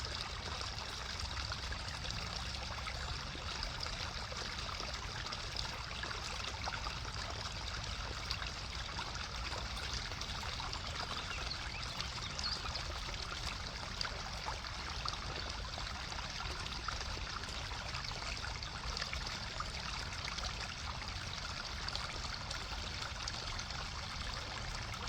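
Babbling brook: water flowing and splashing over rocks, a steady gurgle with fine trickling.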